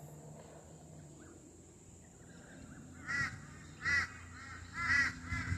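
A bird calling repeatedly outdoors, starting about three seconds in: a series of short calls, each rising and falling in pitch.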